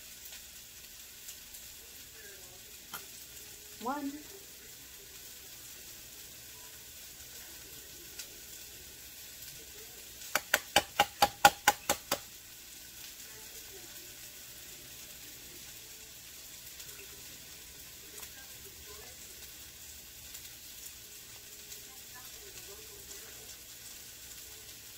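Hot dog pieces frying in a pan, a faint steady sizzle. About ten seconds in comes a quick run of about nine sharp clicks, lasting about two seconds.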